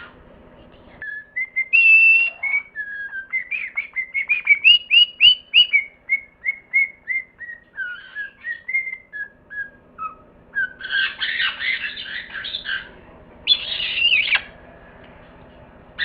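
Parrot whistling a long run of short, clear notes that step up and down in pitch, then giving two harsh, raspy squawks near the end.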